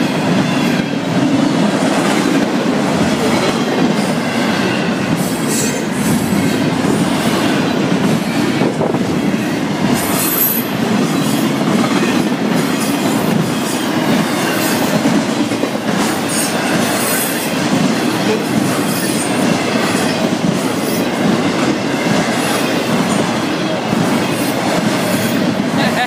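Florida East Coast Railway intermodal freight train's cars rolling past close by: a steady loud rumble of steel wheels on rail, with occasional high squeals from the wheels.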